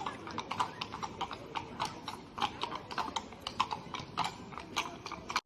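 Hooves of a carriage horse clip-clopping on the street, about four hoofbeats a second, cutting off suddenly near the end.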